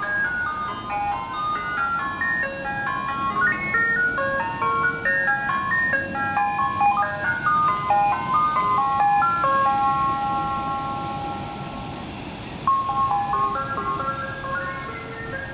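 Ice cream truck playing its chime tune: a tinkling electronic melody of quick stepping notes, with a long held note about two-thirds of the way through before the tune starts up again.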